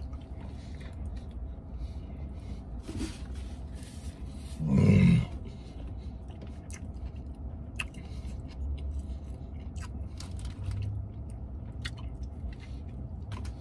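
A man biting into and chewing a burger, with small wet clicks and smacks of eating. About five seconds in there is one short, loud vocal sound from him.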